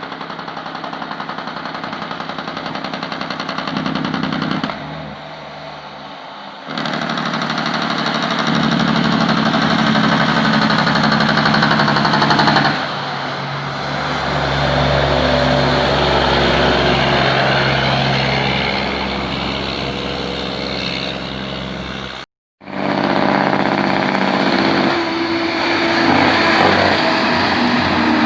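Heavy diesel truck engines running, in a series of clips that change abruptly, with a brief dropout about 22 seconds in.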